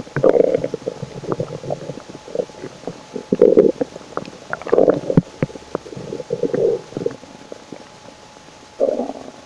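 Human stomach rumbling and gurgling in a series of about five short bursts, the last near the end, with small pops and clicks in between.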